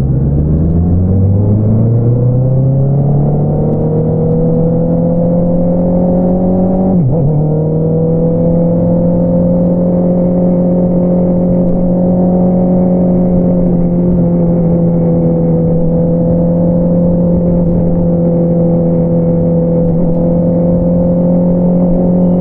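Honda CBR650R's inline-four engine through an Akrapovič single-outlet exhaust, pulling up through the revs over the first few seconds, then a quick gear change about seven seconds in and a steady cruise.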